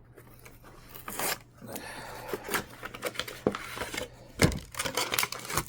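Plastic candy wrapper being torn and crinkled open around a giant peanut butter cup heart, in a run of short crackles, with a knock about four and a half seconds in.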